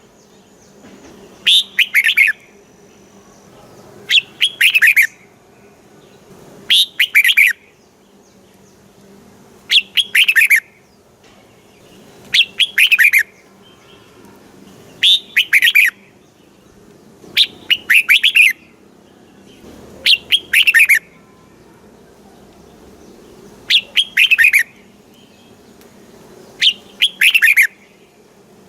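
Red-whiskered bulbul singing: a loud, short phrase of a few quick whistled notes, repeated about every two and a half seconds, ten times in all.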